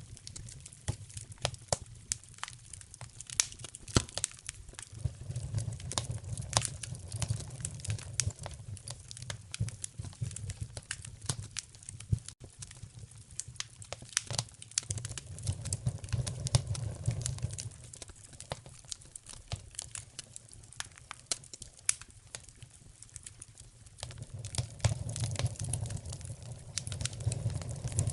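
Wood fire burning logs in a fireplace: irregular sharp crackles and pops over a low rumble of flame that swells and fades every several seconds.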